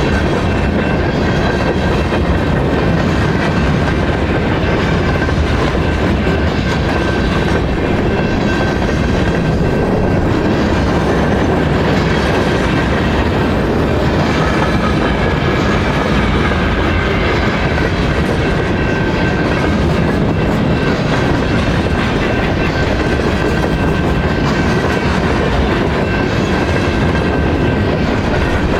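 Railway cars rolling steadily past at close range: a constant noise of steel wheels on rail, with faint high ringing tones from the wheels.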